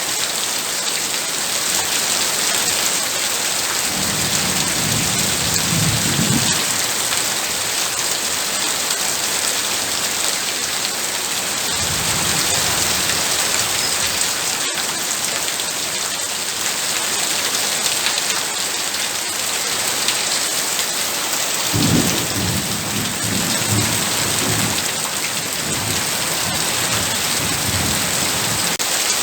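Heavy rain falling steadily with a dense hiss. Low thunder rumbles in three times: about four seconds in, briefly near the middle, and longer in the last third.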